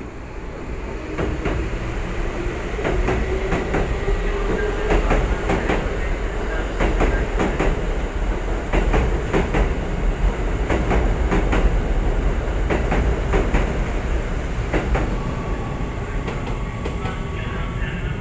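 Electric commuter train running on the rails, its wheels clacking over the rail joints. A motor whine rises in pitch over the first few seconds, over a steady low rumble.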